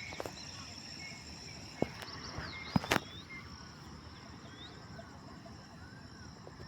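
Outdoor ambience of many small birds chirping in short, repeated arched calls over a steady high insect drone. A few sharp clicks or knocks come about two and three seconds in.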